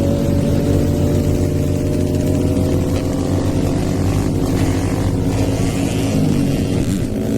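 Hero Eco 150 motorcycle's single-cylinder engine, on a stage 2 tune, running under way with a steady, slowly rising pitch that wavers down and back up near the end.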